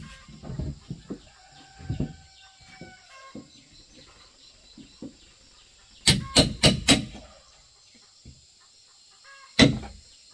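A rooster crowing once, a held call lasting about two seconds. About six seconds in come four quick, sharp knocks, and one more knock near the end; these knocks are the loudest sounds.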